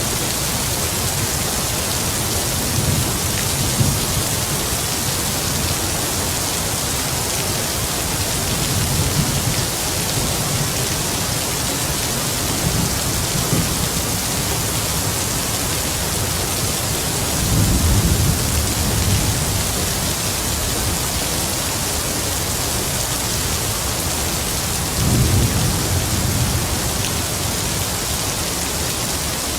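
Steady heavy rain with distant thunder rumbling low several times; the longest, strongest roll comes a little past the middle and another near the end.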